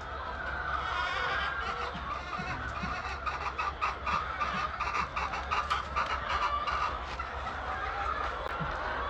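A flock of chickens clucking and chattering together, with a run of quick taps in the middle and a steady low hum underneath.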